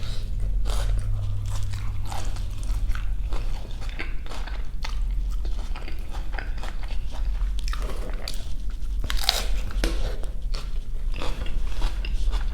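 Close-miked biting and chewing of a beef jianbing, a Chinese crepe wrap, with many irregular crisp crunches over a steady low hum.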